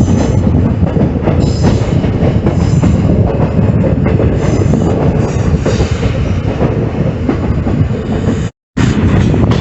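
Passenger train running, a heavy steady rumble of wheels on rail with clicks over the rails and several short high-pitched wheel squeals. The sound drops out completely for a moment near the end.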